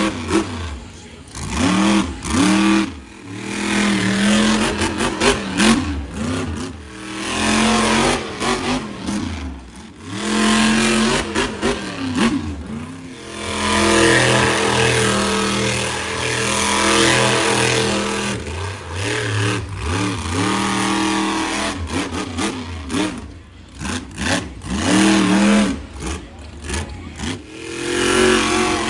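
Monster truck engines revving hard and repeatedly, pitch climbing and dropping in quick blips, with a longer held run at high revs through the middle.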